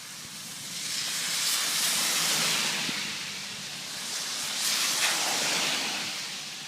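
Heavy rain falling in a downpour, a steady hiss that swells twice.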